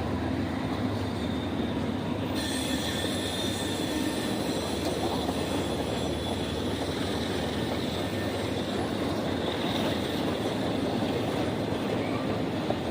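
A train rolling past, a steady rumble of wheels on rail, with a thin high steel-wheel squeal that comes in about two seconds in.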